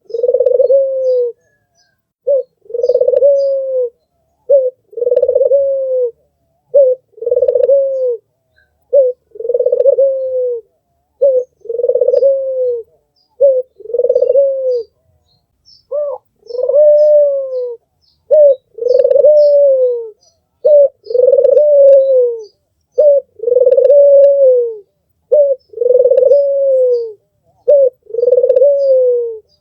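An albino puter dove cooing over and over, about one coo every two seconds. Each coo is a short clipped note followed by a longer note that rises slightly and falls away.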